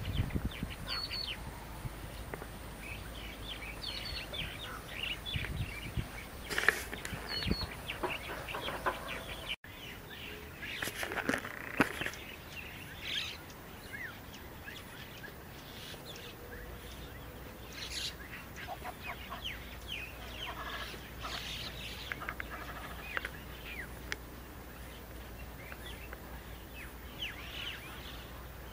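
Wild birds calling: many short, high chirps and calls, overlapping and scattered throughout.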